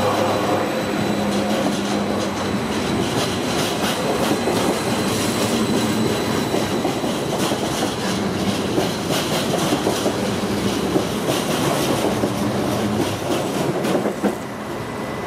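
NSB Type 75 (Stadler FLIRT) electric multiple unit departing and running past close by: a steady rumble with a low hum, and wheels clicking over rail joints and points. The noise drops suddenly about fourteen seconds in as the last car goes by.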